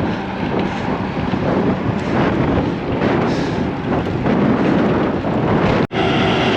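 Wind buffeting the microphone as a cyclist rides into a strong, gusty headwind. Near the end the sound cuts out for an instant, then comes back with a steady droning hum.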